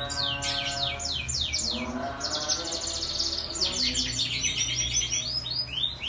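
Domestic canary singing: rolls of quick down-slurred whistled notes repeated many times, with a fast, even trill a little past the middle. Lower sustained tones run underneath.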